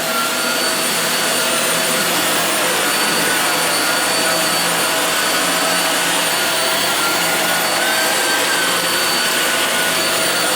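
Hoover WindTunnel Air bagless upright vacuum cleaner running steadily. A rush of air carries several steady whining tones from the motor.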